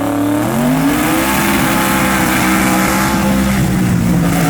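Street race cars running at full throttle, the engine pitch rising about half a second in and then holding high and steady.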